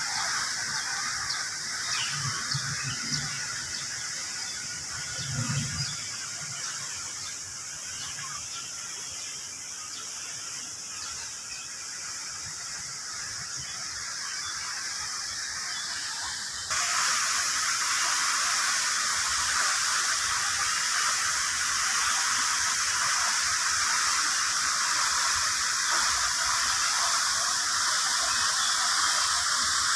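Falling water splashing steadily, at first a thin hiss, then much louder and fuller from a sudden jump about halfway on.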